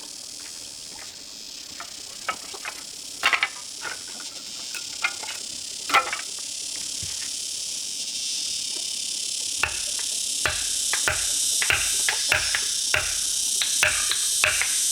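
Steady high insect drone that grows louder, with scattered knocks that settle into a regular beat of about two a second in the second half.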